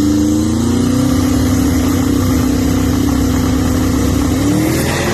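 A drag car's engine revs up and is held at a steady high pitch for about three seconds, then the pitch shifts near the end.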